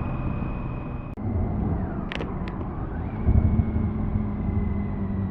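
BMW K1600B motorcycle's inline six-cylinder engine running under way, with a steady high whine that drops away briefly and comes back about three seconds in. A sharp click about a second in and a couple of brief high chirps just after two seconds.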